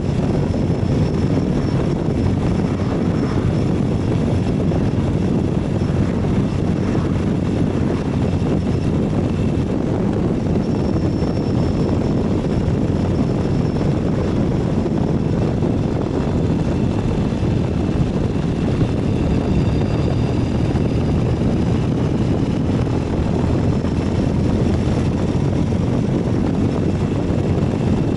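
Ural 750 motorcycle's flat-twin engine running at a steady cruise, under a steady rush of wind noise while riding.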